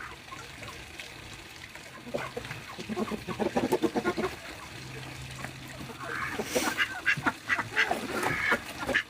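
Poultry calling: a run of rapid, repeated calls about two seconds in, then busier, higher calls and sharp clicks from about six seconds on.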